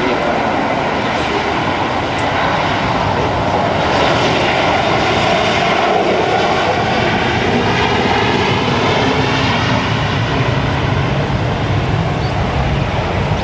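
Airliner's engines passing close by. The noise swells in the middle and then eases, with a sweeping, phasing tone to it.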